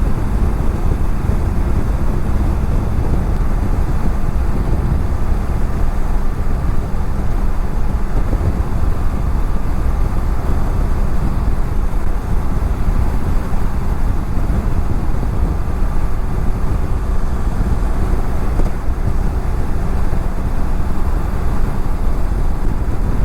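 Steady wind noise on a helmet-mounted microphone at highway speed, over the even drone of a BMW F700GS parallel-twin engine cruising.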